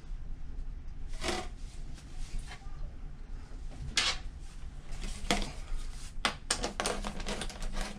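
Handling noise from working a dryer vent duct loose: a few separate knocks and rustles, then a quick run of clicks and crinkles in the last two seconds.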